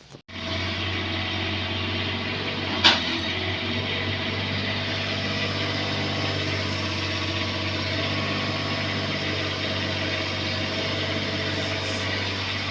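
Bobcat 322 mini excavator's diesel engine running steadily, with one sharp clank about three seconds in.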